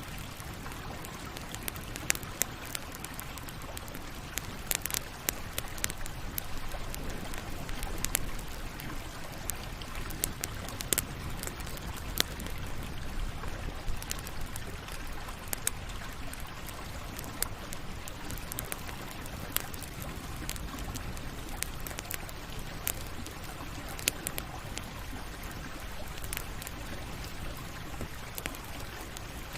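Campfire crackling: a steady hiss with irregular sharp pops and snaps.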